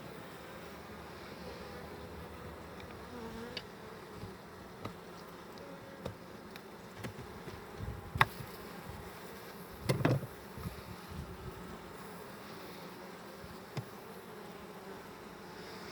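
Honeybees buzzing in a steady hum around an opened hive. A few light clicks are heard, with a sharp click about eight seconds in and a louder knock about two seconds later.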